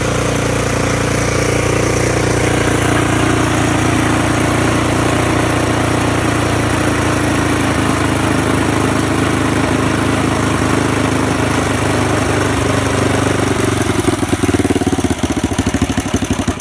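Single-cylinder four-stroke engine of a Honda XR200R, swapped into a CT70 mini bike, idling steadily. From about 14 seconds in, its firing slows into separate, uneven pulses as the engine runs down toward a stop.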